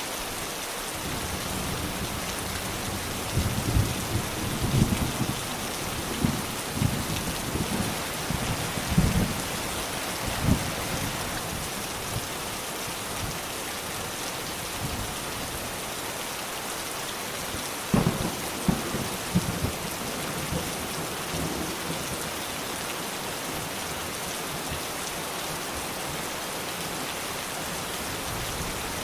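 Steady rain hissing throughout, with thunder rumbling low underneath. There is one long roll in the first third and a second that opens with a sharper clap a little past the middle.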